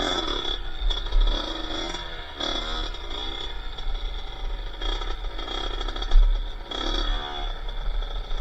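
Small two-stroke dirt-bike engine (a Kawasaki KX80 engine in a Honda XLR80R) revving up and down in repeated surges of throttle while riding off-road, over a low wind rumble on the helmet microphone.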